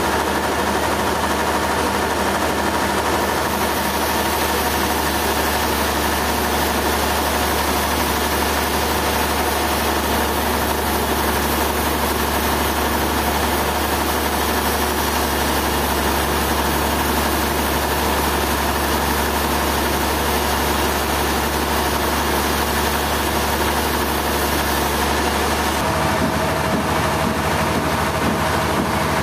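A machinery engine running steadily at an even speed, its tone shifting slightly near the end.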